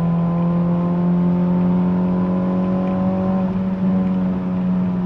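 Modified Honda Civic's engine and exhaust held at steady high revs, giving one even, unchanging drone.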